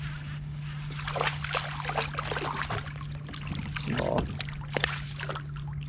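Water splashing and dripping, with scattered clicks, as a small hooked bass is reeled to the surface and lifted out, over a steady low hum.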